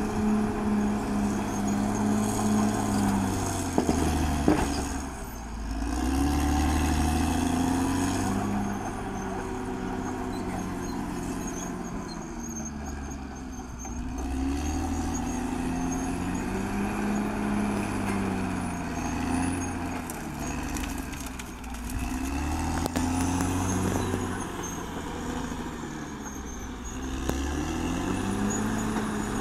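Caterpillar D6R XL bulldozer's diesel engine working under load, its pitch rising and falling over and over as the load changes. A few sharp knocks come about four seconds in.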